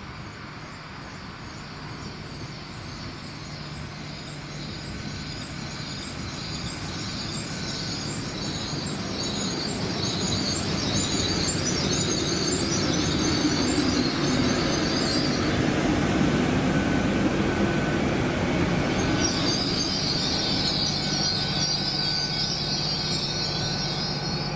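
GWR Hitachi Intercity Express Train (Class 800-series) running into the platform and slowing to a stop, its running noise growing louder as it approaches. A wavering high-pitched squeal comes and goes as it brakes: it fades out about two-thirds of the way through and returns near the end.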